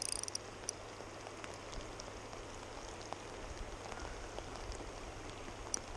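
Steady light hiss of rain. Near the end a short run of quick, sharp clicks comes from a small spinning reel, a KastKing Zephyr 1000, as line is worked against a hooked chinook salmon.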